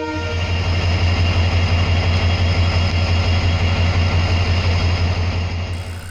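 EMD WDP4B diesel-electric locomotive's two-stroke V16 710 engine running, a steady, loud low drone with a fast even pulse.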